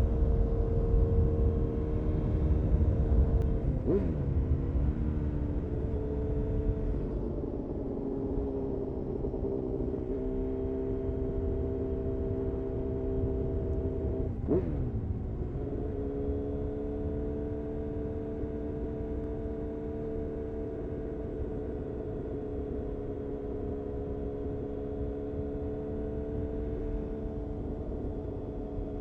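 Honda CBR929RR Fireblade's inline-four engine through an Erion Racing full exhaust, running at fairly steady revs over a low rumble. The pitch swoops briefly twice, about four and fourteen seconds in.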